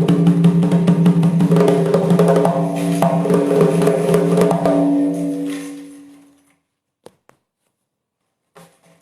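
Doira, the Uzbek frame drum with metal jingle rings, played in a fast run of strokes over the ringing of the drum head. The playing stops and the ring fades out about five to six seconds in, followed by a few faint taps.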